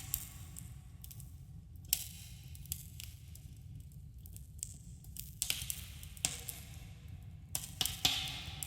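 Campfire crackling and popping over a low steady rumble, with a slight cave echo. Sharp pops come every second or two, the loudest right at the start, with a cluster near the end.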